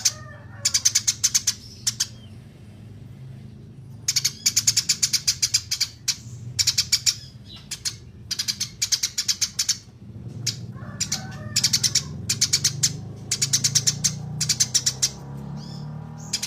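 Small songbirds chirping: repeated bursts of rapid high-pitched notes, each about a second long with short gaps between, over a low steady hum.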